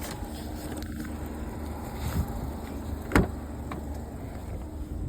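Car cabin noise: steady low engine and road rumble while driving, with one sharp knock about three seconds in.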